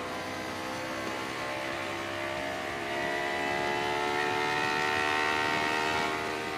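Honda CBR250RR motorcycle engine running through a custom aftermarket exhaust, steady at first, then revving up gradually about three seconds in, its pitch climbing and getting louder before easing off near the end.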